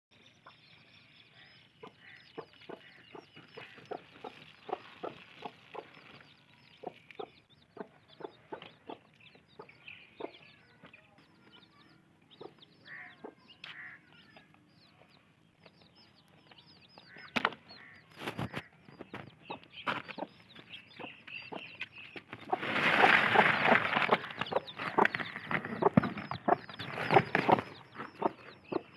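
Chickens clucking in many short, separate calls, which become much louder and denser for several seconds about three-quarters of the way through.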